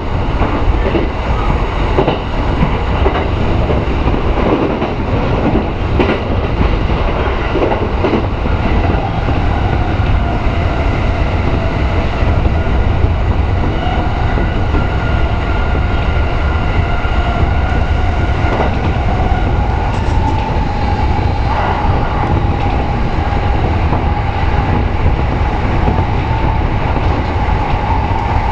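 Electric commuter train running along the line, heard from inside the car: a steady rumble with a few rail clicks early on and a whine that rises slightly in pitch and then holds.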